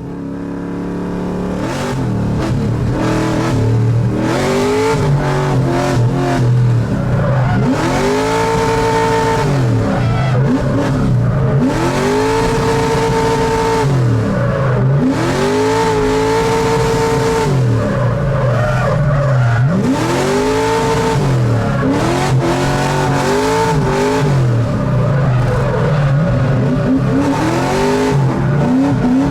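LS3 V8 in a Miata driven hard while drifting: the engine revs climb, hold high for a second or two and drop back, again and again every few seconds, over tyre squeal.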